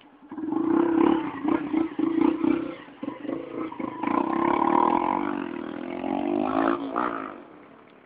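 Modified Yamaha YBR motorcycle's single-cylinder four-stroke engine running hard at high revs with a rough, noisy edge. Its pitch creeps up, then the sound dies away near the end.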